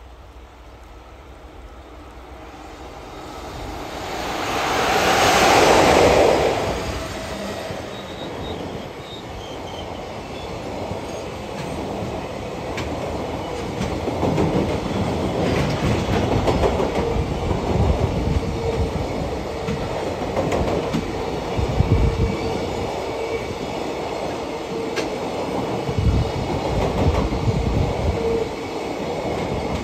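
Freight train passing close: the electric locomotive goes by with a swell of noise about five seconds in, then a long string of container wagons rolls past, wheels clacking over rail joints with recurring heavy thumps and a faint steady whine.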